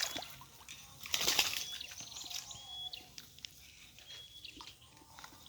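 A freshly landed snakehead flapping while it is handled, with scattered rustling bursts, the loudest about a second in.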